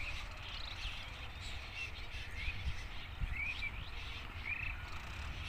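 Birds chirping faintly, a handful of short curved calls spaced a second or so apart, over a low steady background rumble.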